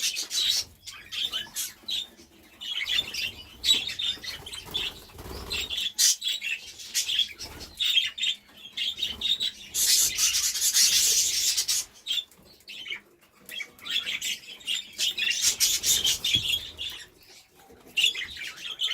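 Budgies fluttering in a cage: repeated bursts of rustling wingbeats mixed with light chirping.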